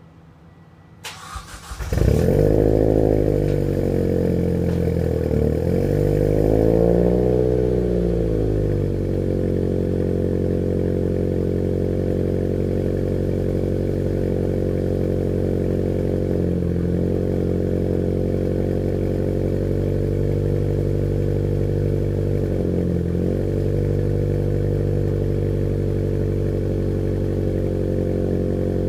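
Mitsubishi Evo X turbocharged 2.0-litre four-cylinder engine, on its first start with a new BorgWarner EFR turbo kit and ETS exhaust, cranks briefly and catches about two seconds in. The idle rises and falls for several seconds, then settles to a steady idle with two brief dips later on.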